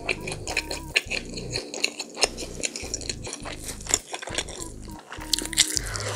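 Close-up chewing and biting of a crisp breaded fried cutlet, with many small crunchy clicks from the crust.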